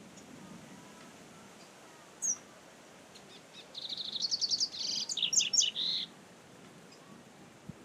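Double-collared seedeater (coleiro) singing: one short high note about two seconds in, then a fast run of quick repeated high notes lasting about two seconds.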